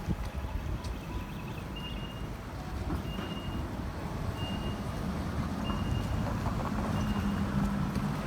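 City street traffic running, with a vehicle engine humming louder through the second half. A short high electronic beep repeats about once a second over it.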